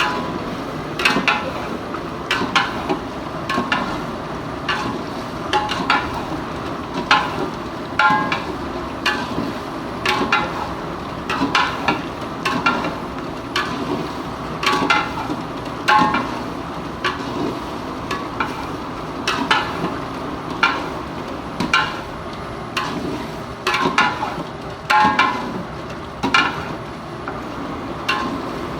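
A metal spoon stirring chicken gizzards in a cooking pot, clinking against the pot's metal sides once or twice a second with a short ring, over a steady sizzle of frying.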